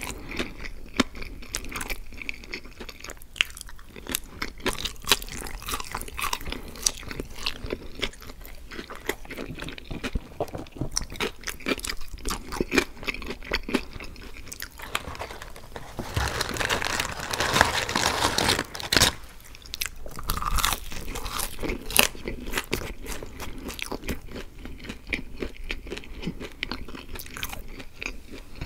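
Close-miked chewing of fast-food french fries: irregular wet crunching and mouth clicks. Just past halfway, a louder stretch of noise lasts a couple of seconds.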